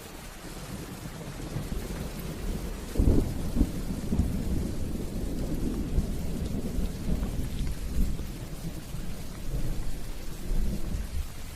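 Steady rain with a long rumble of thunder. The rumble builds, cracks loudest about three seconds in and keeps rolling under the rain.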